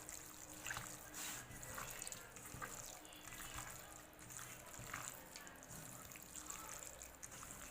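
Hands mixing raw chicken pieces with mustard oil and spices in a bowl: a faint, irregular run of wet squelches.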